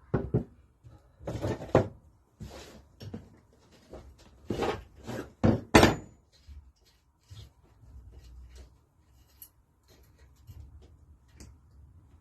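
Knocks and clunks of engine parts and tools being handled and set down during the strip-down of a Lister D engine, a burst of several sharp knocks in the first half with the loudest about six seconds in, then quieter scattered taps.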